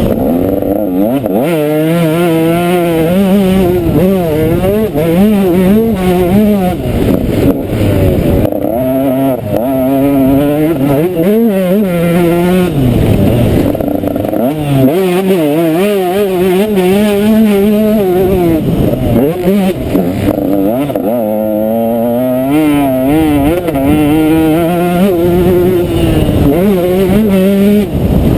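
Motocross bike engine revving hard and rising and falling in pitch over and over as the rider opens and closes the throttle and shifts through the gears, heard close up from an onboard camera with wind on the microphone.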